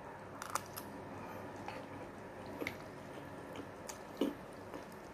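Wet chewing of a mouthful of instant noodles mixed with marshmallow, with soft scattered clicks and smacks of the mouth.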